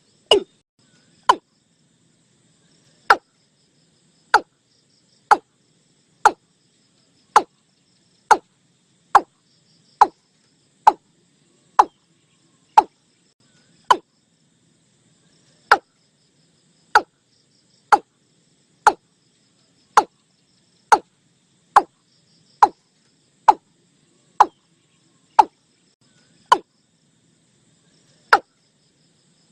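Call of the bird known in Thai as nok i-klung: short, sharp notes, each dropping quickly in pitch, repeated about once a second in a slightly uneven rhythm.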